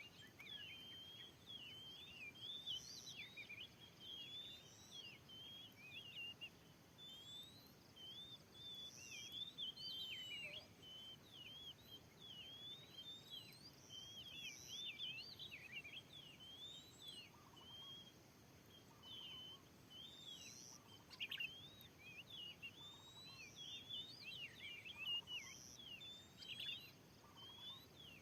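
Oriental magpie-robin (kacer) singing: a continuous, fast run of short, sweeping whistled notes, faint.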